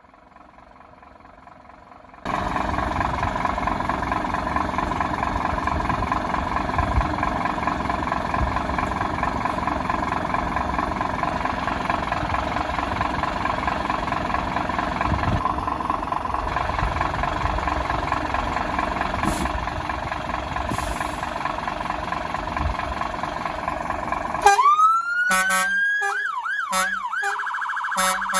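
Fire engine siren sounding, heard from inside the cab. It starts a couple of seconds in as a steady, loud, fast-cycling tone. Near the end it switches to slower rising and falling wails.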